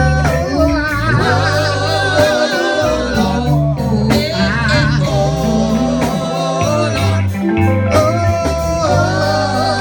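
Gospel song with a band: a singer draws out long, wavering 'oh' notes over a steady bass line and drums.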